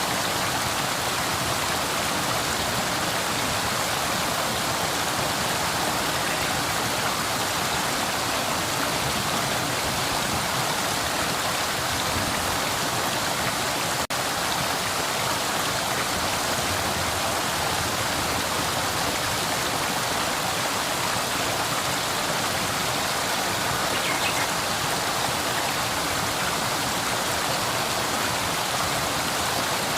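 River water flowing over stones: a steady, even rush that barely changes, with one brief dip in level about halfway through.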